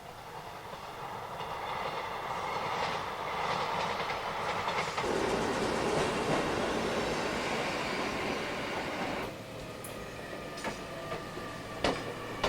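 Electric train running on the rails, its running noise swelling over the first few seconds and then dropping sharply about nine seconds in, followed by a few sharp clicks from the wheels and track near the end.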